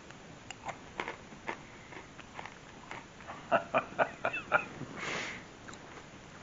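A person chewing crunchy pretzels: scattered crisp crunches, with a quick run of louder crunches from about three and a half to four and a half seconds in, then a short breath through the nose.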